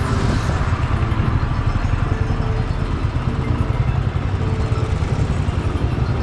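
A road vehicle on the move: a steady low engine and road rumble with a fast flutter.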